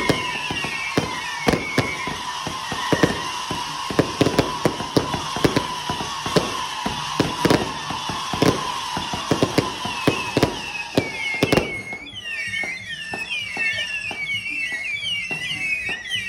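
Fireworks going off in a rapid, irregular series of sharp bangs and crackles, stopping abruptly about twelve seconds in. A high warbling whistle repeats about twice a second and continues after the bangs end.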